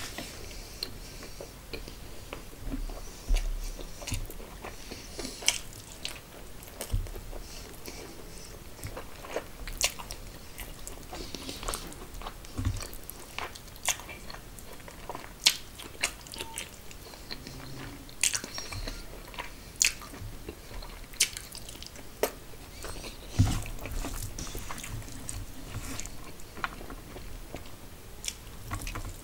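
Close-miked eating sounds: a person chewing and biting mouthfuls of rice and curry eaten by hand, with irregular sharp mouth clicks and smacks.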